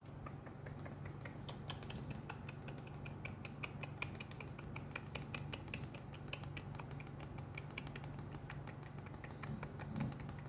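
Rapid, irregular ASMR clicking, several sharp clicks a second, over a steady low hum.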